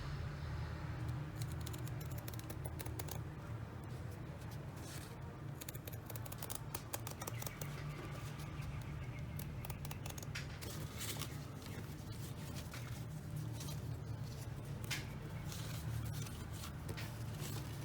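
Cross-stitching handling sounds: repeated short scratches and clicks of a needle and cotton floss being drawn through aida fabric, over a low steady hum.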